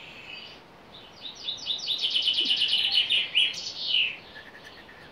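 A songbird singing: a rapid trill of repeated high chirps lasting a little under three seconds, ending in a falling note.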